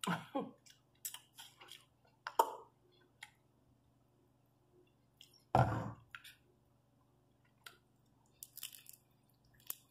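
A person eating crispy fried food close to the microphone: chewing and crunching with scattered wet clicks and smacks of the mouth, and one louder, longer mouth sound a little past halfway.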